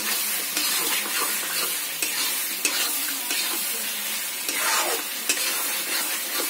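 Chicken with ground masala sizzling as it is sautéed in a black kadai, with a steel spatula scraping and stirring it around the pan in repeated strokes.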